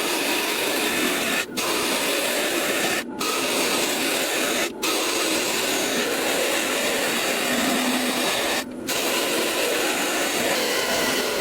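Wood lathe running with a tool working the spinning wood: a steady, loud hiss, broken by four brief dropouts.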